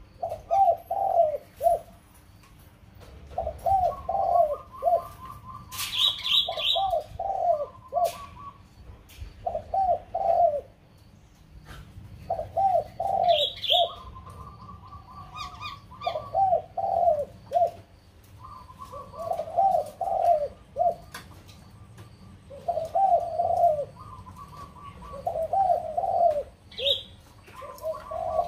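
Bird calls: a cooing phrase of three or four falling notes, repeated about every three seconds. Between the phrases come a quicker, higher trill of rapid notes and a few short high chirps.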